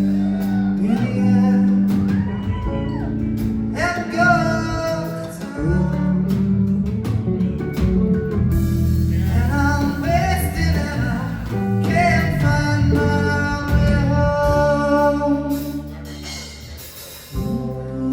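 Live blues-rock band playing, with a singer over guitar. The music eases off briefly near the end and then comes back in.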